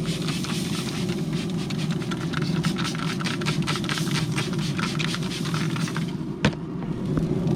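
Hand spray bottle spritzing the ribs over and over with quick hissing sprays of bourbon and apple juice, over a steady low rumble. The spraying stops about six seconds in, and a single sharp click follows.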